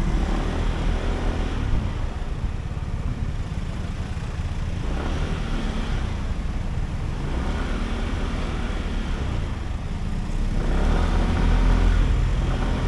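Sym Jet X 125 scooter's single-cylinder 125 cc engine running while riding, getting louder as it picks up speed about ten seconds in.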